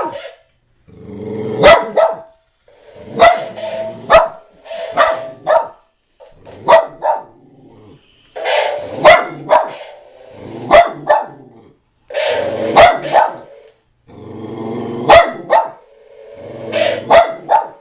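A dog barking in short bouts, one or two loud barks every second or two, with growling between them; it is a wary reaction to a talking parrot.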